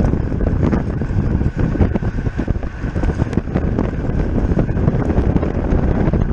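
Loud wind rushing over the microphone of a camera on a racing bicycle at speed, with scattered small clicks and a faint steady whine under it.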